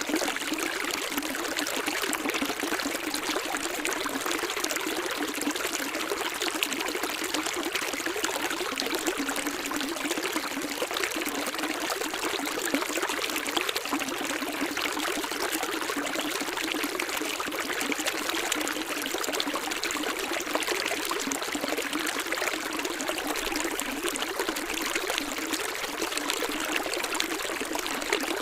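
Water of a stream running and splashing steadily, an even rushing trickle with no change or pause.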